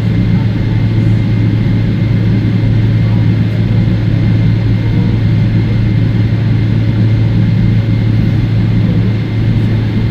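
Steady cabin drone of a Boeing 777-300ER taxiing, its GE90 engines running at low taxi thrust, heard from a window seat as a constant low hum with a faint steady high whine over it.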